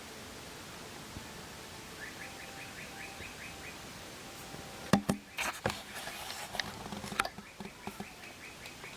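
A bird's rapid trill of short repeated chirps, twice. Between them come a sharp knock, the loudest sound, and a scatter of clicks and rustles.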